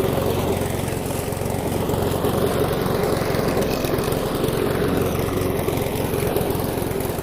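Gasoline walk-behind lawn mower, a 21-inch mower with a Briggs & Stratton single-cylinder engine, running steadily just after a hard start.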